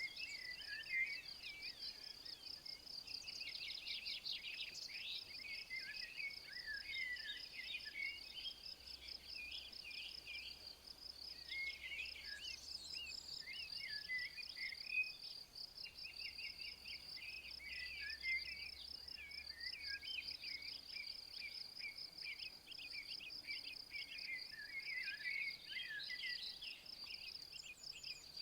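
Insects, cricket-like, giving a steady, fast-pulsing high trill without a break, while small songbirds sing short, varied chirping phrases on and off over it.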